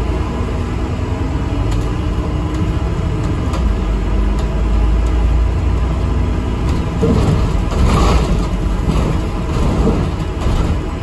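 Inside an ADL Enviro 400 MMC double-decker bus on the move: a steady low rumble of engine and road, with a faint whine that glides in pitch early on. A burst of rattling and knocking comes between about seven and ten seconds in.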